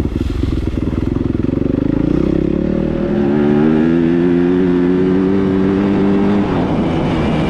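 Dirt bike engine under hard acceleration: the pitch climbs for a couple of seconds, holds at high revs, then drops as the throttle eases off near the end.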